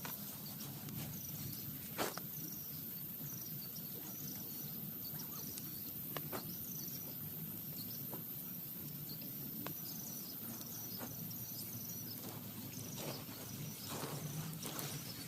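Insects chirping in a steady repeated pattern, about two chirps a second, over a steady outdoor background hum, with a few sharp taps or knocks here and there.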